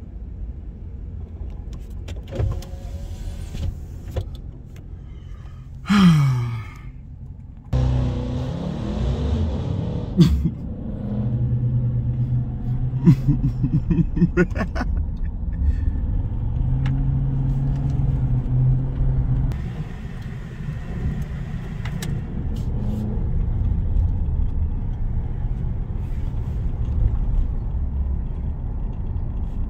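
Muffler-deleted Hemi V8 cars driving in convoy: the exhaust drones low and steady, rising and falling as they rev and accelerate. About six seconds in a sharp rev falls away in pitch. From about eight seconds the exhaust runs louder, with more rushing noise.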